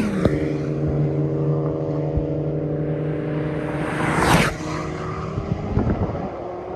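A car engine running at a steady pitch. About four seconds in comes a brief loud rush of noise, after which the engine sound is fainter.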